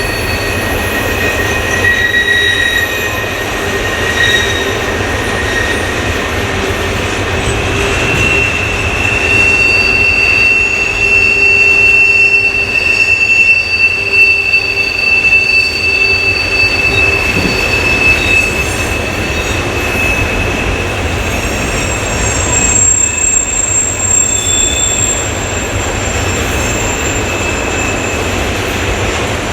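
Empty freight cars of a potash train rolling through a curved track connection, with a low rumble of wheels on rail. Their wheel flanges squeal on the curve in several high, steady tones that come and go, loudest through the middle stretch.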